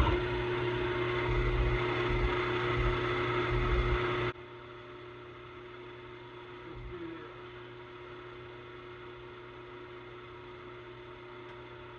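Old Walker-Turner drill press's electric motor running steadily with a hum. About four seconds in it drops suddenly to a quieter level and keeps running.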